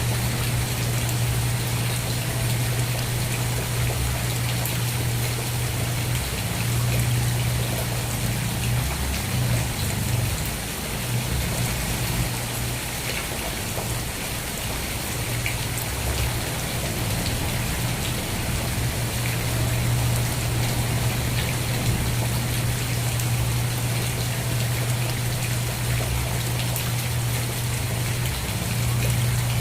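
Steady rain falling, a dense patter of drops, with a steady low hum underneath.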